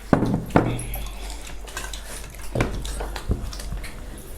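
Eating sounds at a meal of sel roti and kheer: mouth and chewing noises with four sharp clinks or knocks of cutlery and dishes, two near the start and two later.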